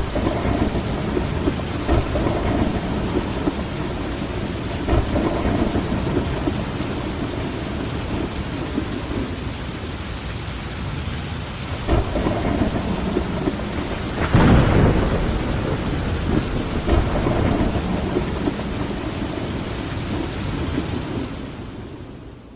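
Steady rain against a window with rolling thunder. A louder thunderclap comes a little past halfway, and the whole sound fades out near the end.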